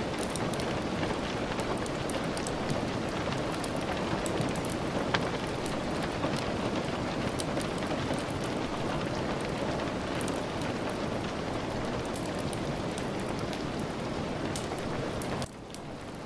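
Steady rain with scattered sharp pops from a crackling wood fire. Near the end the sound drops abruptly to a quieter, duller level.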